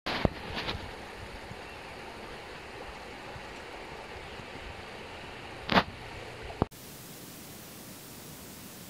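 Steady rush of a shallow river flowing over stones, with a few short knocks, the loudest nearly six seconds in. Near the end the sound changes abruptly to a flatter, even hiss.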